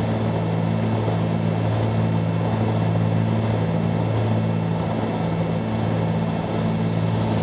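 Cabin drone of a 1974 Cessna 310Q's twin piston engines and propellers in flight: a steady, even hum with a faint slow pulsing.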